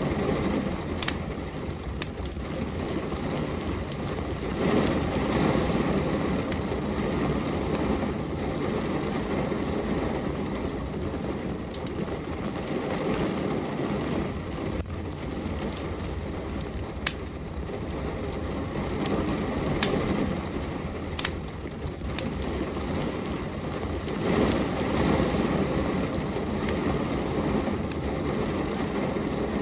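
Steady autumn rain hissing, with a burning wood fire in a fireplace: a low rushing noise that swells every several seconds, broken by sharp, scattered crackles and pops from the fire.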